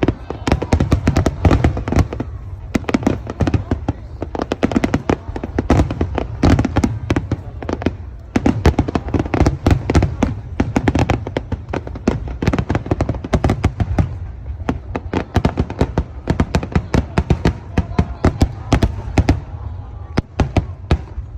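A dense barrage of aerial firework shells bursting, with many sharp booms and cracks a second overlapping into a continuous rumble. The bursts thin out a little near the end.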